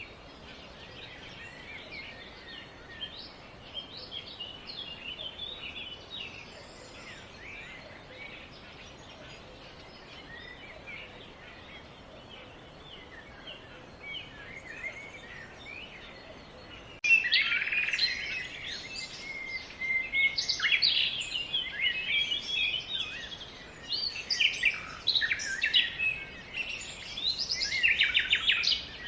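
Many birds chirping and calling at once in short, quick, overlapping notes. A little past halfway the chorus suddenly gets louder and busier.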